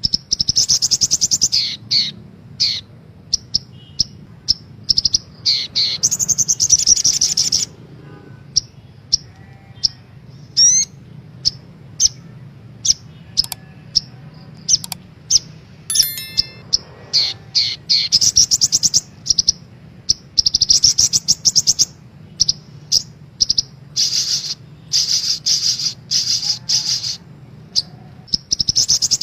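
Sogok ontong sunbirds singing: rapid high trills, each about a second long, alternating with many short sharp chips and a few quick rising notes, over a faint low hum. This is a lure recording meant to set caged birds singing.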